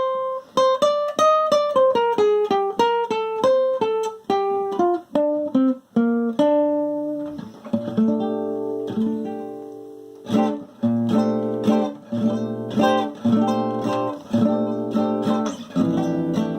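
Acoustic guitar instrumental: a melody of single picked notes stepping downward, a held chord, then steady rhythmic strummed chords from about ten seconds in.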